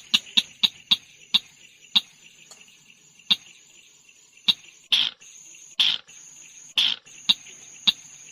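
Recorded call of the tut-tutan merah bird played as a lure: a string of sharp ticks, then three louder high chirps about a second apart in the second half, over a steady high-pitched trill like a cricket's.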